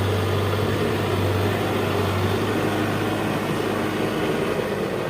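An engine running steadily with a low hum, probably the diesel engine of a construction machine.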